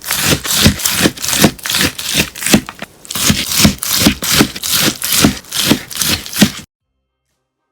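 Crunchy melamine-sponge slime being worked by hand, crackling in rhythmic strokes about two and a half a second. The crunching stops abruptly near the end.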